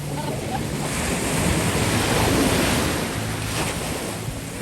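Ocean surf: waves breaking and washing, swelling to a peak about two seconds in, with wind buffeting the microphone.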